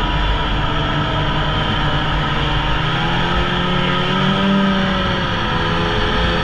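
Polaris Indy snowmobile engine running under way, its pitch rising a little and easing back down in the middle of the stretch.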